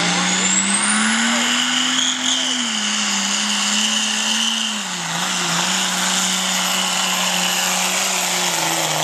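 Diesel pickup truck engine running at full load while pulling the sled, with a high turbo whine that climbs over the first second or two and then holds. The engine note drops a step about two and a half seconds in and again around five seconds.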